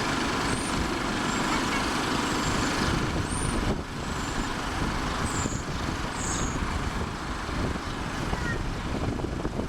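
Jet airliner engines running at high power, a steady rush of noise that eases slightly about four seconds in, with a few faint high chirps over it.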